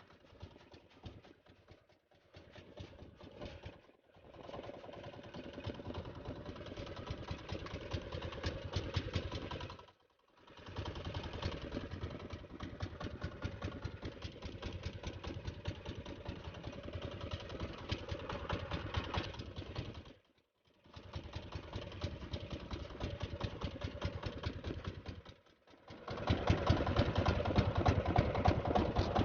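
Small engine running with a rapid, even firing beat. It drops out briefly four times and is louder for the last few seconds.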